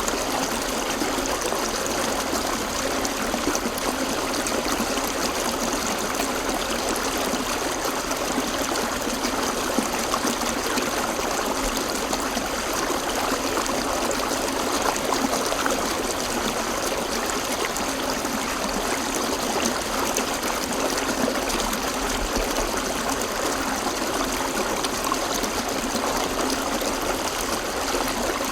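River water flowing over and around rocks, a steady rushing and burbling.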